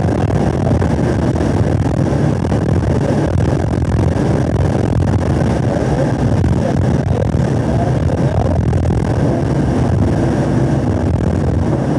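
A 2017 Camaro SS 1LE's 6.2-litre V8 running hard at high revs at full track speed, heard inside the car. It changes up a gear partway through, then back down a gear as the car slows near the end.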